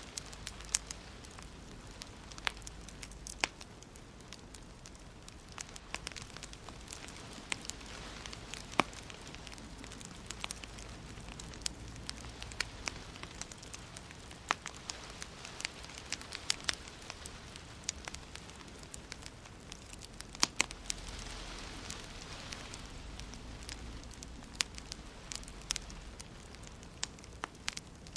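Wood fire crackling in a fireplace: irregular sharp pops and snaps over a steady low hiss.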